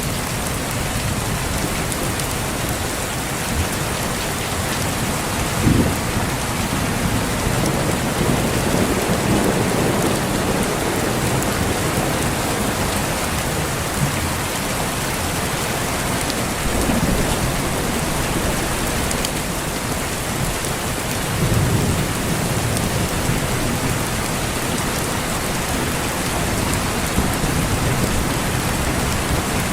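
Steady heavy rain hissing, with low rolls of thunder rumbling several times through it.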